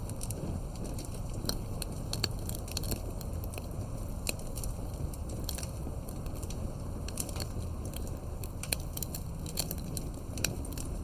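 Wood campfire burning: frequent irregular crackles and snaps, a few of them louder pops, over a low steady rumble of the flames.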